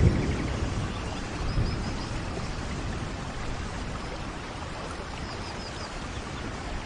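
Steady rainforest rain, with a low thunder rumble at the start that fades within about a second. Short runs of high chirps sound twice, about a second and a half in and again near five seconds.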